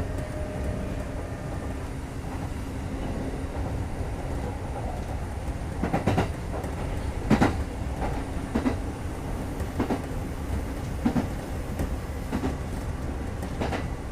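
Kintetsu 2430-series electric commuter train running, heard from inside the car: a steady low rumble of wheels and running gear. From about six seconds in, wheel clacks over rail joints come roughly every second and a bit.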